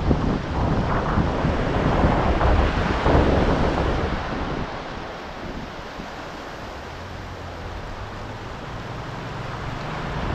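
Ocean waves breaking on the shore, with wind buffeting the microphone. A wave crashes loudly in the first few seconds, fades to a quieter wash about five seconds in, and the surf builds again near the end.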